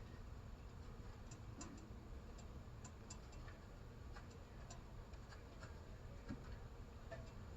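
Near silence: a faint low rumble with scattered light clicks, a few a second, irregularly spaced.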